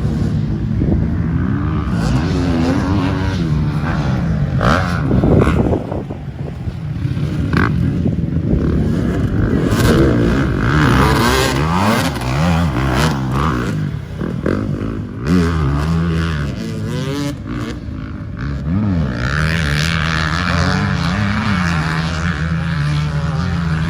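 KTM 250 motocross bike engine racing round the track, its pitch rising under hard throttle and dropping off again and again through gear changes and corners.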